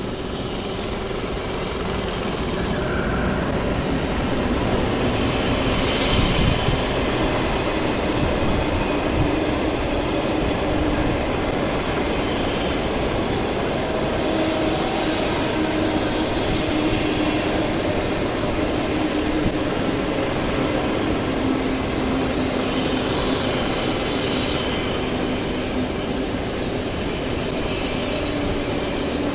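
Express passenger train passing close by: an HXD3D electric locomotive followed by a long rake of 25T passenger coaches rolling over the rails. The steady rail rumble grows over the first few seconds and then holds.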